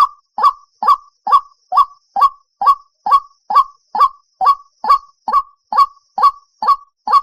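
White-breasted waterhen calling: one short, loud note repeated at a steady, even pace a little over twice a second.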